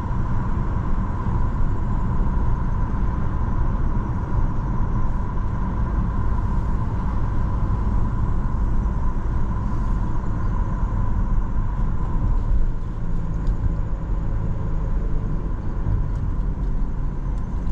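Road noise inside a moving car: a steady low rumble of tyres and engine while driving.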